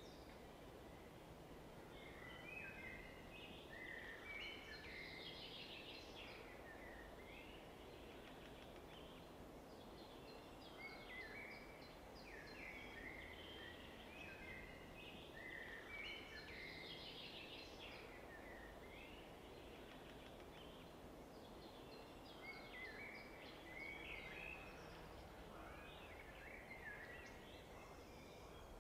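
Faint birdsong: groups of quick chirping notes that come and go every several seconds, over a low steady hiss.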